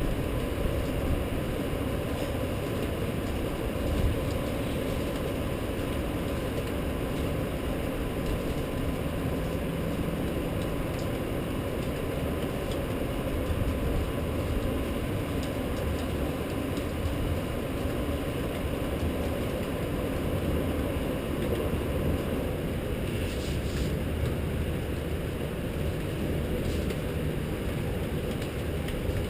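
Steady low rumbling noise of a rain storm, with a faint steady high tone that stops about three quarters of the way through.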